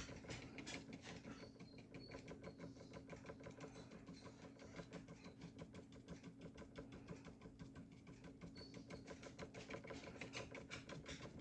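Faint, rapid tapping of a stiff bristle brush dabbed against paper to paint fir branches in gouache, several dabs a second, over a faint steady low hum.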